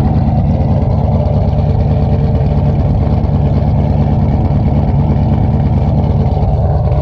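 Supercharged Dodge Daytona 392's 6.4-litre V8 idling loudly and steadily.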